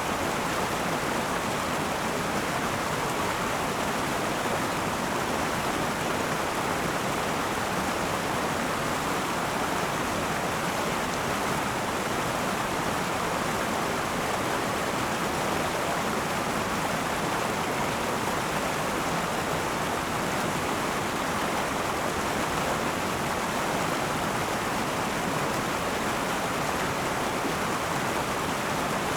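Akan River flowing and rushing steadily over rocks, a constant even rush of water with no breaks.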